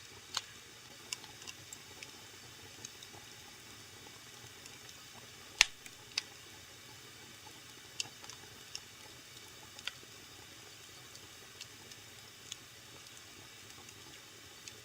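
Wood fire crackling in a fireplace: irregular sharp pops and snaps over a soft steady hiss, the loudest pop about five and a half seconds in.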